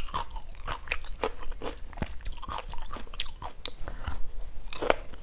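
Close-up chewing of a person eating stir-fried chicken gizzard with lemongrass and chili: a run of irregular wet mouth clicks and crunches, with another bite taken about four seconds in.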